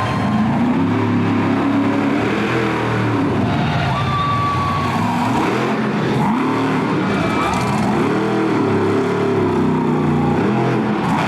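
Monster truck engine revving hard again and again, its pitch swelling up and dropping back in quick, uneven bursts.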